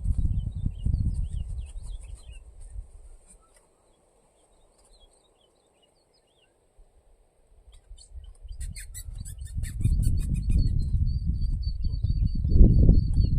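Low rumbling buffeting on the microphone. It fades out for a few seconds in the middle and returns louder near the end. Under it, small birds give faint short chirps, a quick run of ticking notes comes about two-thirds through, and a thin steady high tone begins near the end.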